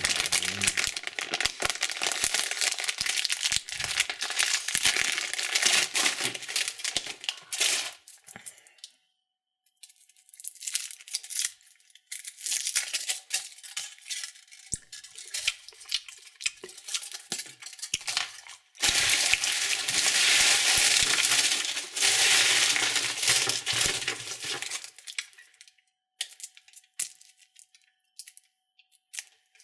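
Candy wrappers crinkling and tearing as they are opened. There are three long spells of dense crackling, the loudest about two-thirds of the way through, with short pauses and scattered clicks between them.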